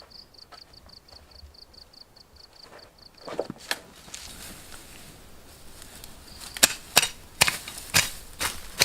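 A blade chopping bamboo: about seven sharp, separate strikes, mostly in the second half. Before them comes a high chirping in a fast, even pulse, like an insect.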